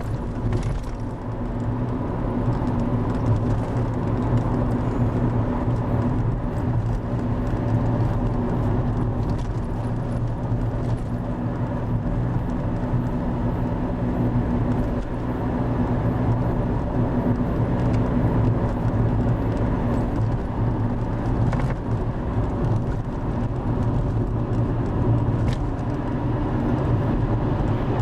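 The Driva river in a 50-year flood, running at about 1000 cubic metres a second: a steady, loud rush of water, heaviest in the low end.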